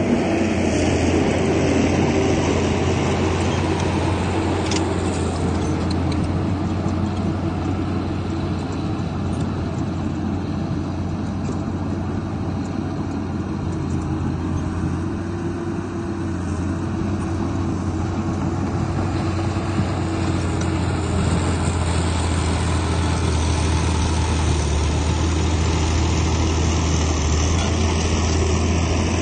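Heavy diesel engine of earthmoving machinery running steadily under work, easing off a little midway and building again towards the end.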